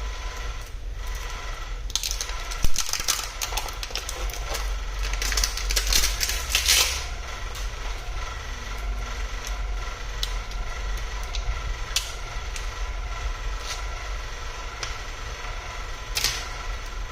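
Rapid, irregular clicking and tapping, densest between about two and seven seconds in, with one sharp louder click early on, over a steady low hum.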